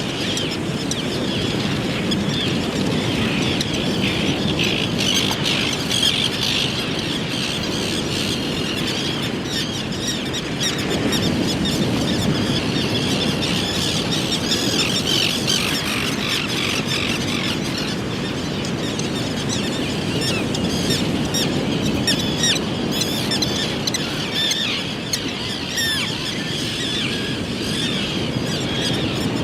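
Small birds calling continuously in many quick, overlapping high notes, over a steady low rumble.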